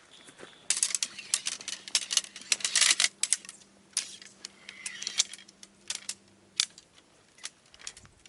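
A rapid, irregular run of sharp clicks and clatters, densest a few seconds in, then thinning out.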